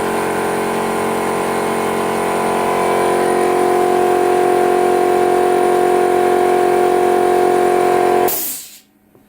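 CUT50 air plasma cutter's arc running, a loud steady buzz with hiss that steps up slightly about three seconds in and cuts off abruptly near the end when the arc stops, leaving a few small clicks. On this unit the arc melts the metal and consumables rather than cutting cleanly.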